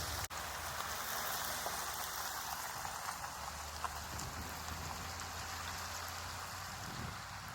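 Steady patter of falling precipitation, with a low steady hum underneath. The sound drops out for an instant just after the start.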